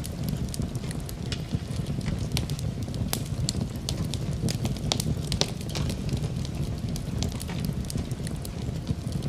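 Wood fire in a fireplace crackling, with many sharp, irregular pops over a steady low rumble of the flames.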